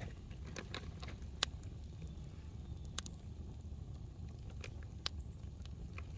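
Campfire crackling, with scattered sharp wood pops over a low steady rumble of the burning fire.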